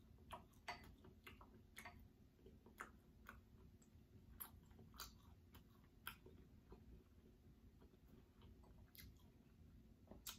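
Faint chewing with scattered, irregular sharp clicks and smacks, as small bites of air-fried Cornish hen are eaten and picked apart by hand.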